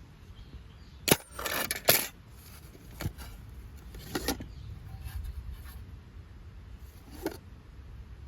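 Metal camp cookware being handled: a handful of sharp clinks and clatters, the loudest about a second in, over a steady low rumble.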